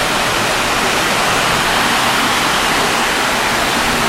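Rain falling steadily, a loud even hiss with no letup.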